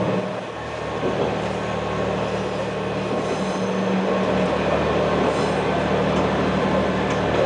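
KiHa 120 diesel railcar running along the line: the diesel engine drones steadily under the rumble of wheels on rails.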